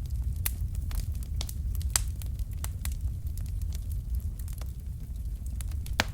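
Wood fire burning: a steady low rumble with irregular sharp crackles and pops, a louder pop about two seconds in and another near the end.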